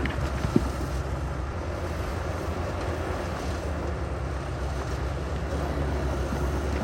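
Heavy diesel earthmoving machinery running steadily, a deep engine rumble, with a single sharp knock about half a second in.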